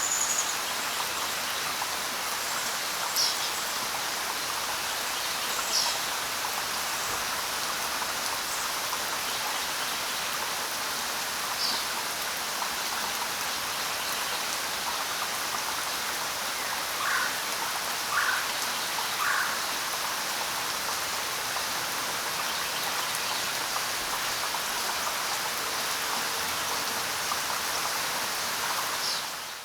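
Steady, dense jungle rain hiss. A few short, high chirps sound now and then, and three lower calls come in quick succession about two-thirds of the way through. The rain drops away sharply at the very end.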